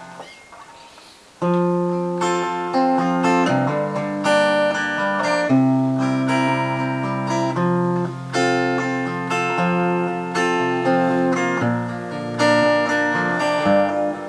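Acoustic guitar playing chords as a song intro, starting sharply about a second and a half in, with each new chord clearly struck.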